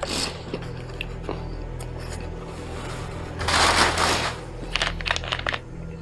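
A crinkling, rustling burst lasting under a second, about three and a half seconds in, then a few short crackles and clicks, over a steady low hum.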